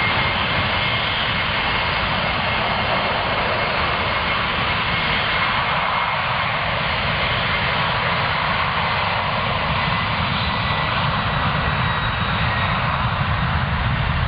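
Jet aircraft engines running steadily: an even rushing noise with a faint high whine, holding the same level throughout.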